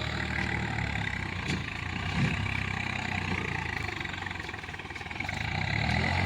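Swaraj 744 tractor's diesel engine running with a steady low note. The note eases slightly about two-thirds in and swells again near the end.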